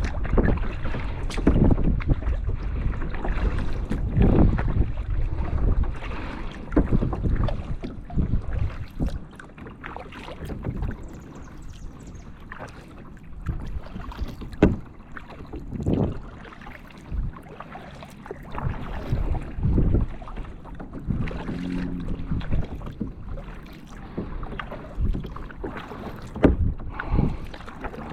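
Kayak paddle strokes dipping and splashing in calm water every couple of seconds, with wind buffeting the microphone, heaviest in the first several seconds.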